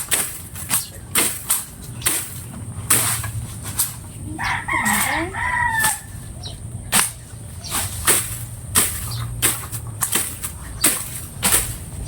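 Repeated sharp swishing strokes, about one or two a second, from clearing a yard. A rooster crows once, about four and a half seconds in.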